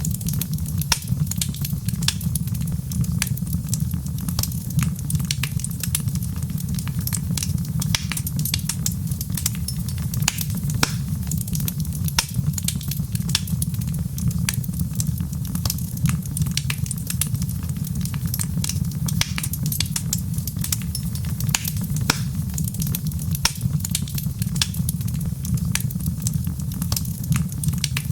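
Fireplace wood fire crackling, with frequent sharp irregular pops and snaps over a steady low rumble.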